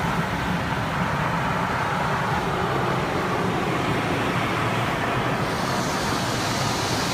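Automatic car wash working over a car, heard from inside the car: a steady rush of water spray and machinery on the bodywork, turning hissier about five and a half seconds in.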